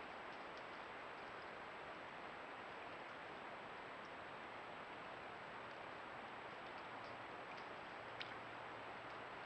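Steady outdoor hiss picked up by a trail camera's microphone, with a faint thin high whine throughout and a few faint clicks, the clearest about eight seconds in. A faint low hum comes in near the end.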